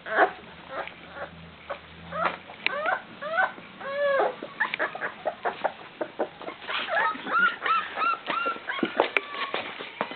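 Newborn bull terrier puppies whining: a run of many short, high calls that rise and fall, one after another.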